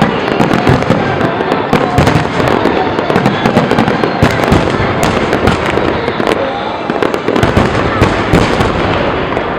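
Aerial fireworks display: a dense, continuous barrage of bangs and crackles, many bursts a second, easing off a little near the end.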